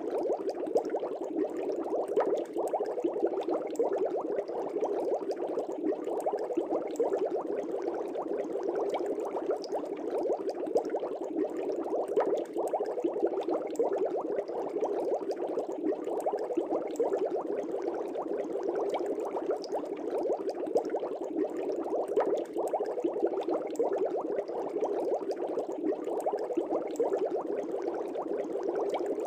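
Air bubbles streaming up through a fish tank and breaking at the water's surface, making a steady, dense bubbling.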